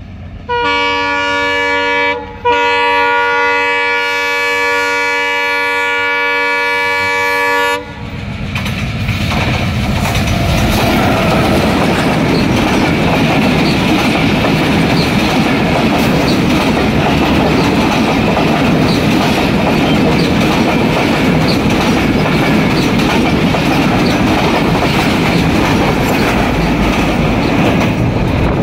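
Intercity express train's diesel locomotive sounding its horn, a short blast then a long one of about five seconds. Then the train passes close by, a loud steady rumble with the wheels clattering over the rail joints.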